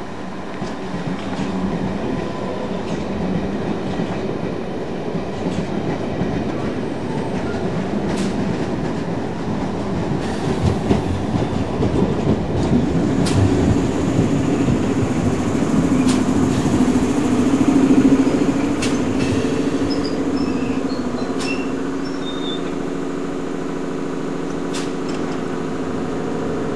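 London Underground A Stock train on the Metropolitan line running into the platform and slowing to a stop, its wheels clicking over the rail joints. It then stands with a steady hum.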